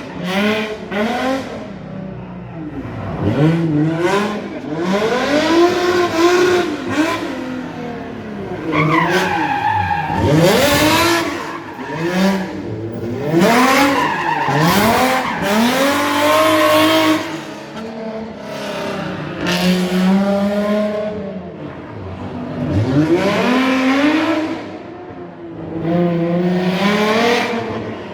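Rally car engine revving hard, its pitch repeatedly rising and falling, with bursts of tyre squeal as the car slides sideways through handbrake turns.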